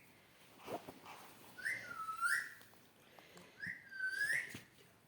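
A two-part whistle, given twice about two seconds apart: a short upward note, then a longer note that dips and climbs back up. Faint clicks or rustles fall between the whistles.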